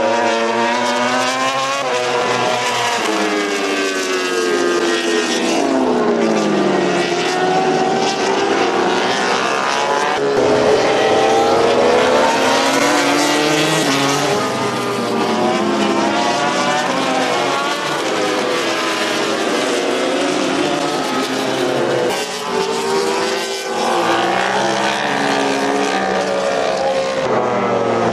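Several Grand Prix racing motorcycles passing at speed. Their engines rev up and down through the gears in overlapping rising and falling pitches, with a brief lull a little before the end.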